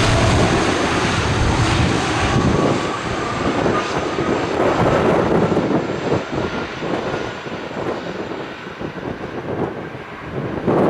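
Airliner engines running loud at first, then fading away over several seconds as the aircraft moves off, with a faint steady whine in the noise early on.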